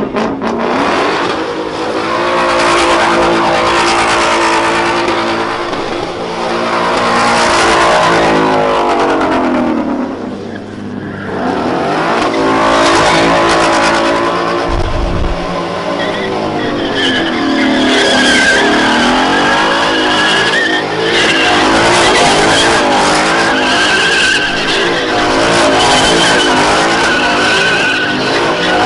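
A car engine revving hard, its pitch climbing and falling over and over as the tyres spin. Tyres squeal steadily through the second half.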